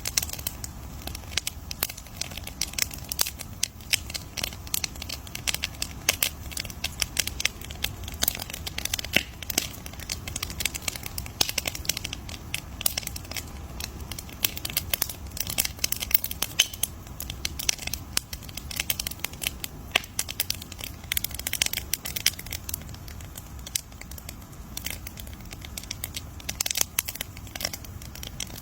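Bonfire crackling: a dense, irregular stream of sharp pops and snaps over a low, steady rumble.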